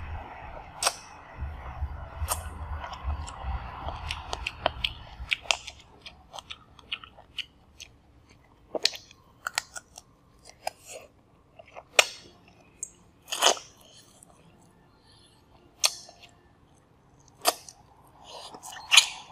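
Close-miked chewing and biting of food: irregular wet clicks and crunches, with a few louder crunches in the second half.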